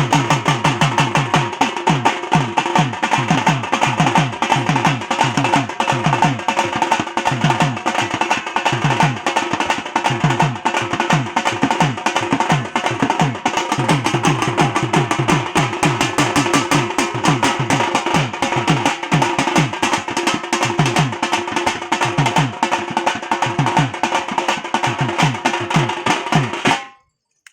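Fast, continuous drumming with deep strokes that drop in pitch, over a steady held tone, for dancing. It cuts off suddenly near the end.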